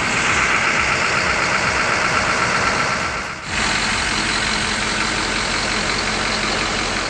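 Heavy truck engine running steadily and loudly, with a brief dip about three and a half seconds in.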